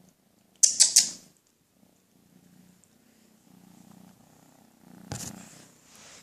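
Kitten purring, with a few sharp scratchy noises about a second in and a thump a little after five seconds.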